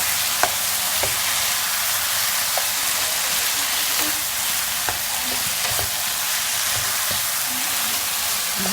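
Chicken sizzling in hot oil in a karahi as it is fried down (bhuna) after the water has cooked off: a steady frying hiss with a few scattered sharp clicks.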